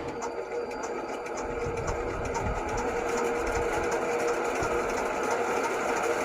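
Small single-cylinder engine of a walk-behind tractor running steadily with a fast, even beat.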